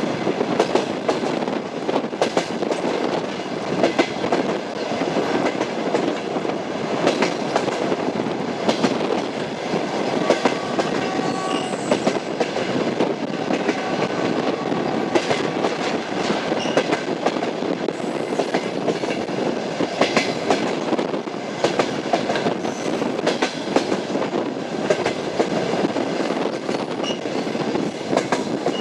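Train running steadily, its wheels clattering over the rail joints with a continuous rumble and frequent clicks.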